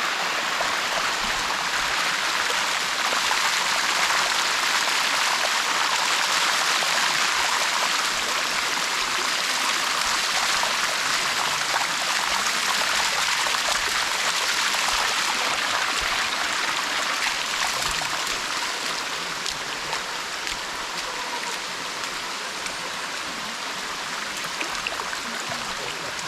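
Steady rush of water flowing down the Sticky Waterfall's shallow limestone cascade, easing a little in the last third.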